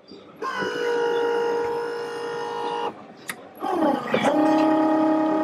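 A small machine motor whining at a steady pitch in two runs. The first lasts about two and a half seconds; the second starts about a second later with a quick downward swoop and then holds steady.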